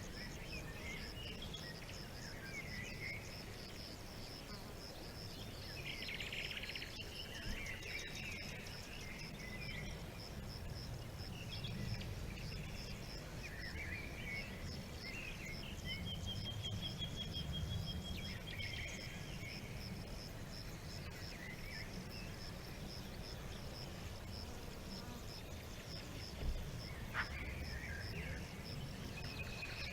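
An insect chirps steadily in rapid even pulses while birds give scattered short calls and, midway, one drawn-out trill, over a low background rumble. Two brief clicks sound near the end.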